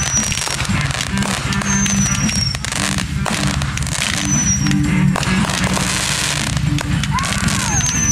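Fireworks going off continuously: dense crackling and many sharp bangs, with a short, high, falling whistle about every two seconds.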